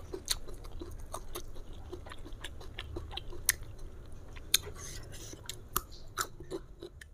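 Close-up chewing of raw old jengkol slices, with irregular sharp crunches and wet mouth clicks.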